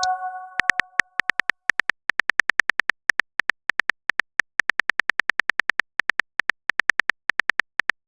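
TextingStory app's keyboard tap sounds: runs of quick, identical clicks, about seven a second, with short pauses between runs as a message is typed out. A chime from the app fades out at the start.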